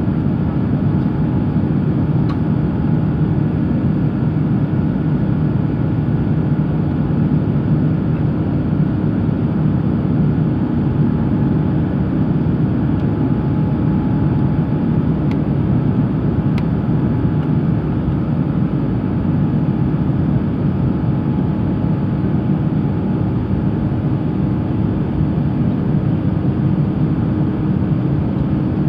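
Steady cabin noise of an Airbus A350-900 in flight: an even, low drone of airflow and its Rolls-Royce Trent XWB engines, heard inside the cabin, with a faint steady whine above it.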